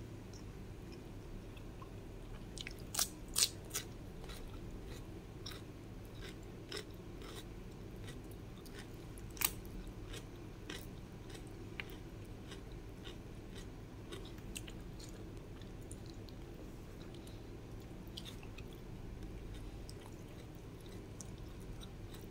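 Close-miked chewing and crunching of someone eating, with scattered short, sharp mouth clicks and bites. The loudest crunches come in a quick cluster about three seconds in and once near ten seconds, over a steady low hum.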